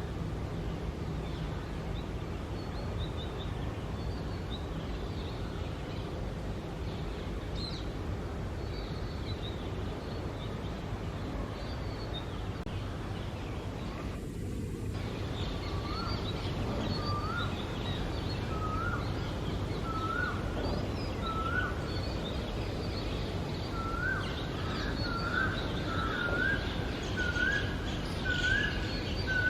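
Wild birds calling over a steady low background rumble: faint high chirps throughout, and from about halfway a series of short rising whistled notes, about one a second, that climb in pitch towards the end.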